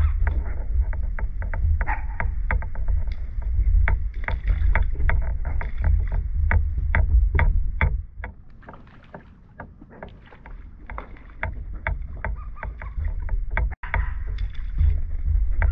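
Water slapping and lapping against a dock in quick irregular knocks over a low rumble, easing off into a quieter stretch about eight seconds in before building again.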